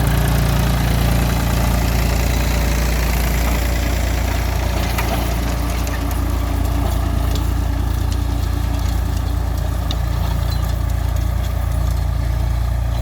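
Mahindra 275 DI TU tractor's 39 hp diesel engine running steadily.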